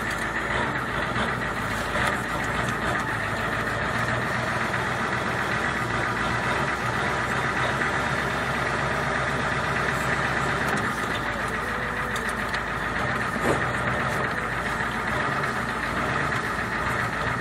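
Diesel engine running steadily at low speed with its clatter, as the manual-transmission vehicle is eased into reverse and backed up.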